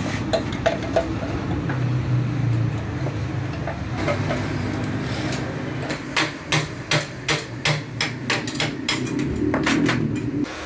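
Hammer blows during a motorcycle's disassembly: a few scattered knocks, then a quick, evenly spaced run of about ten strikes, nearly three a second, in the second half, over a steady low hum.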